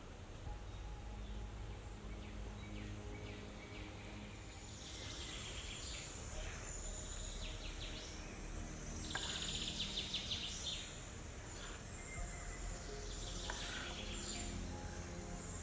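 Outdoor ambience of small birds chirping and trilling, the calls starting about five seconds in, over a steady low rumble.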